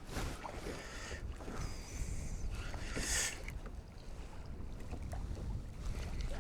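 Sea water sloshing against a kayak, with wind buffeting the microphone and a few short splashes in the first half.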